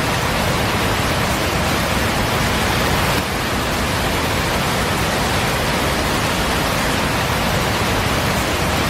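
A loud, steady rushing noise, even from deep rumble to high hiss, with no separate knocks or calls; it dips slightly about three seconds in.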